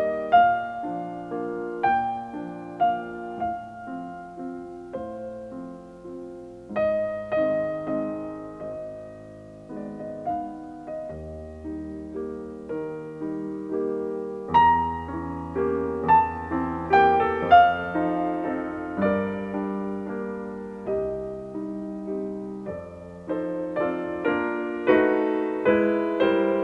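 Background piano music: a slow, gentle piece with struck notes that ring and fade, growing fuller and louder from about halfway through.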